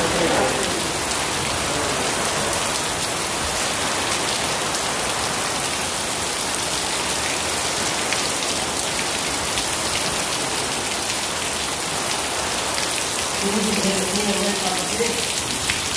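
Heavy rain pouring down steadily, drops splashing onto a flooded concrete floor: an even, unbroken hiss.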